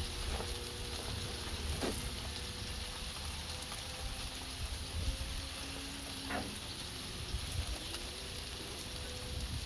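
A thick meatloaf burger patty sizzling on a hot cooking surface, its juices popping with a few short crackles over the steady frying hiss.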